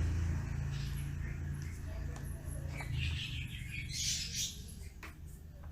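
Small birds chirping in short high bursts, busiest about three to four seconds in, over a low rumble that fades away in the first seconds.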